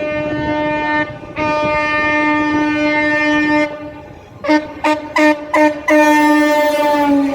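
Henschel diesel locomotive's horn sounding for a level crossing: a short blast, a long blast, four quick toots, then another long blast whose pitch dips slightly near the end.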